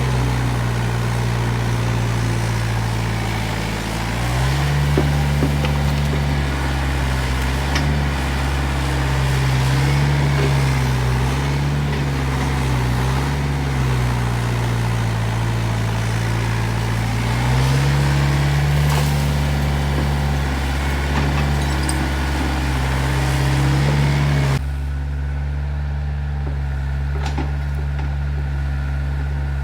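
Volvo ECR88 excavator's diesel engine running under working load, its pitch shifting as the hydraulics are worked, with clatter and hiss over it. About 25 seconds in, the working noise stops abruptly and the engine carries on at a steadier pitch.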